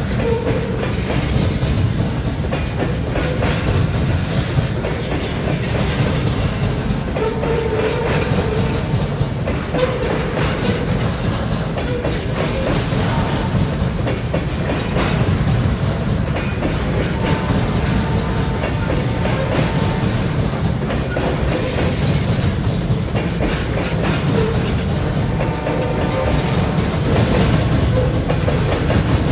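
Loaded freight train of bulkhead flatcars rolling past close by: a steady heavy rumble with the clickety-clack of wheels over rail joints, and brief squeals from the wheels every few seconds.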